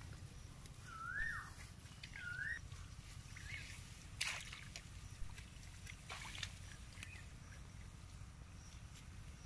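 A bird calling, short whistled notes that rise and fall, repeated about once a second for the first few seconds, over a steady low rumble. A couple of brief sharp crackles sound near the middle.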